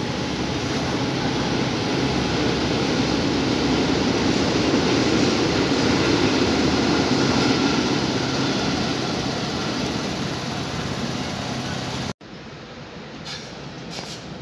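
A train rolling through the station: a loud rushing rumble that builds to a peak midway and eases off, then breaks off abruptly near the end.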